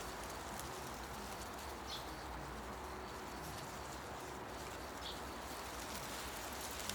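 Forest ambience: a steady hiss of wind through leaves, with two short high bird chirps about two seconds and five seconds in.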